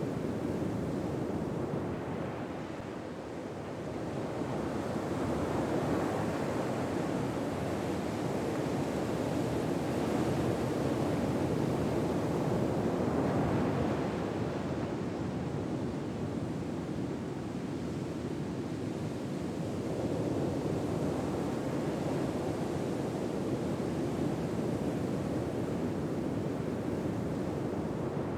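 Ocean waves washing ashore: a steady rushing wash that swells and ebbs slowly, every six or seven seconds.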